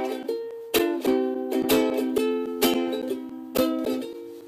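Ukulele strumming chords in a small room, about two strums a second, each chord ringing and fading before the next.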